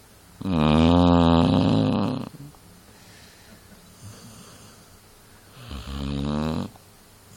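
Dog snoring: two loud snores with a wavering pitched tone, the first about two seconds long and the loudest, the second shorter and softer about six seconds in.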